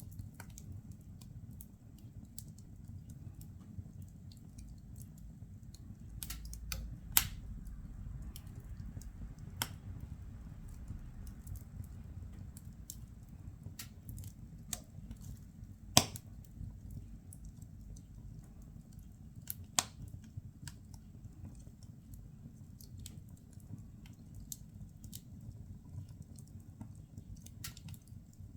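Firewood burning in a fireplace, crackling with irregular sharp snaps and a few much louder pops over a low steady rumble of the fire.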